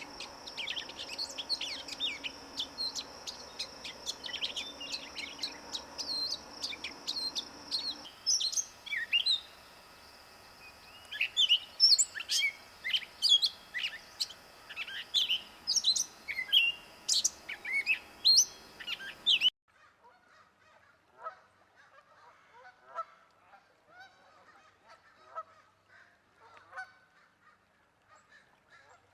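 Birds calling and chirping in three successive recordings. The first two are dense, high chirps, the first over a steady high whistle. After an abrupt cut about two-thirds of the way through come quieter, lower calls.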